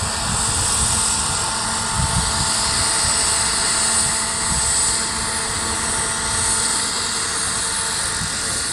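Turbine-powered radio-controlled Alouette III model helicopter running, its small gas turbine giving a steady high whine with rotor noise and a low uneven rumble beneath.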